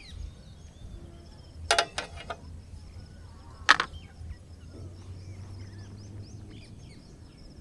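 Small birds chirping over a faint steady high insect drone, broken by a quick cluster of sharp knocks about two seconds in and one louder sharp knock or snap nearly four seconds in.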